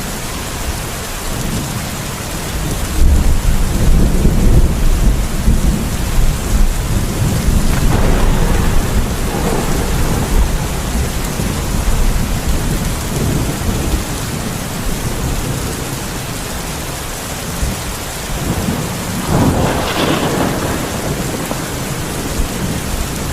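Steady heavy rain with thunder. A long low rumble of thunder swells from about three seconds in, and another peal comes near the end.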